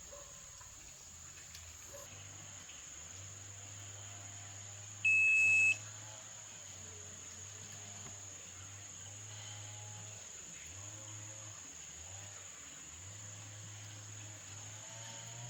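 A single loud electronic beep, one steady high tone lasting under a second, about five seconds in. Behind it are a steady high-pitched drone and a faint low hum.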